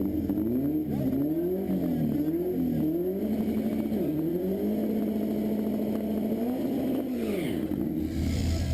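Car engine revving up and down several times in quick succession, then holding a steady note for a couple of seconds before the revs drop away near the end.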